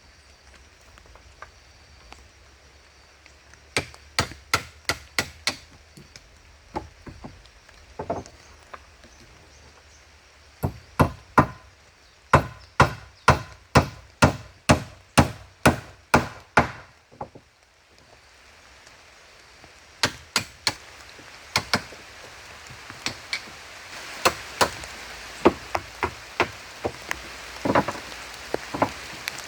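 Wood being chopped: runs of sharp blows, about three a second, with short pauses between the runs. A steady hiss of rain builds up in the second half.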